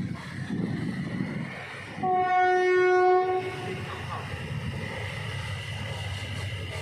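A diesel locomotive's horn sounds one steady blast of about a second and a half, a couple of seconds in, over the rumble of the train running along the track.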